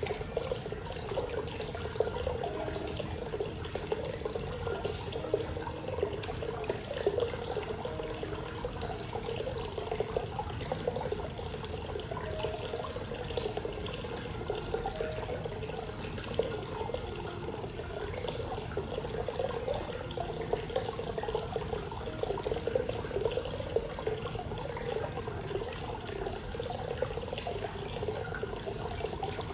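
Hot spring water pouring steadily into a bath, a continuous splashing and gurgling.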